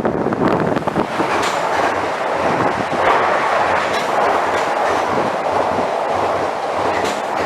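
A train passing close by: a loud, steady rush of steel wheels on rail, with the clickety-clack of wheels running over rail joints.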